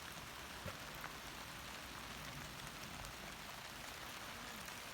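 Steady rain falling, an even hiss with scattered ticks of drops striking.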